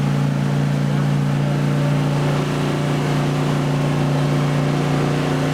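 An engine running steadily at one unchanging pitch, cutting in abruptly.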